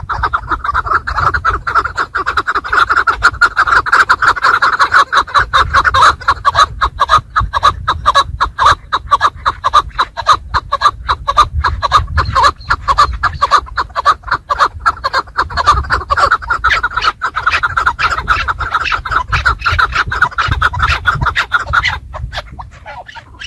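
Chukar partridges calling in a rapid, continuous clucking chatter that stops abruptly near the end.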